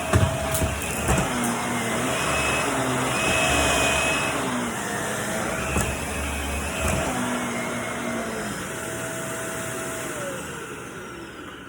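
Vacuum cleaner running with a steady rush of air, with a few knocks in the first seconds. Near the end it is switched off and the motor winds down with a falling whine.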